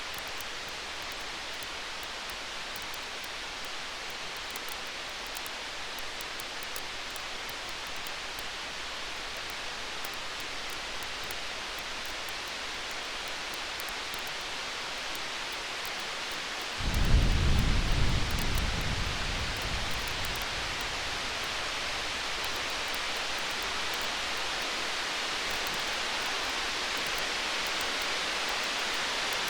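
Campfire crackling faintly over a steady hiss, and a distant thunder rumble that starts suddenly a little past halfway and dies away over about four seconds.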